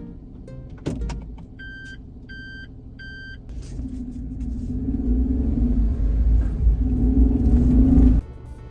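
A click, then three short evenly spaced electronic beeps, then a car's engine and road rumble growing louder for about four seconds before cutting off suddenly.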